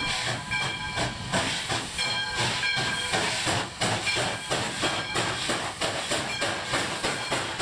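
Nevada Northern No. 93, a 2-8-0 steam locomotive, working steam on a run-by: its exhaust chuffs in an even, steady rhythm over a hiss of steam.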